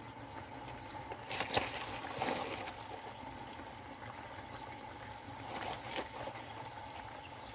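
Chicken curry bubbling steadily as it simmers down to thicken, with a few brief knocks.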